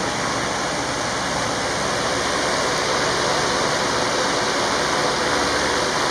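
Fans running: a loud, steady rush of air with a faint steady hum underneath.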